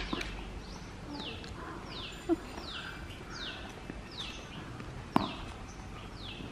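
A bird calling over and over, a short high note that falls in pitch, repeated about every two-thirds of a second. One sharp knock about five seconds in.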